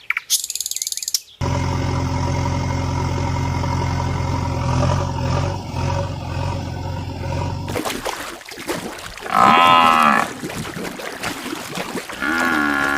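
A steady engine drone for about six seconds, then a loud cow-like moo lasting about a second, followed by another long held call near the end.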